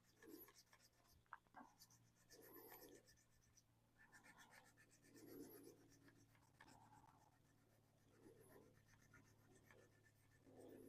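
Faint, slow strokes of wet 400-grit sandpaper rubbing over the painted surface of a 3D-printed RC car body, a short rub every second or two, wearing through the paint to weather it. A low steady hum sits underneath.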